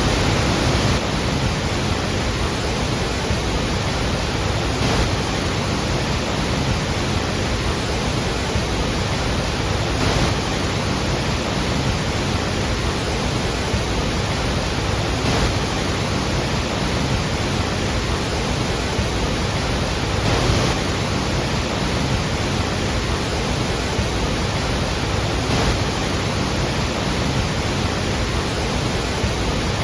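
Iguazu Falls, a very large waterfall, pouring steadily: a dense, even rush of falling water, with a slight swell about every five seconds.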